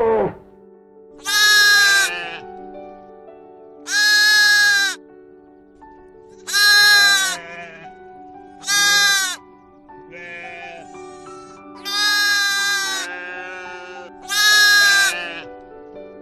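A sheep or goat-type animal bleating repeatedly: six loud bleats of about a second each, with fainter bleats between them, over steady background music.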